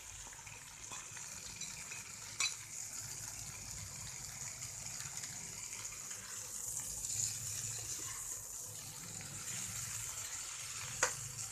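Aubergine pieces with tomato and onion sizzling steadily in hot mustard oil in a frying pan while they are stirred with a metal spoon. The spoon clacks against the pan about two seconds in and again near the end.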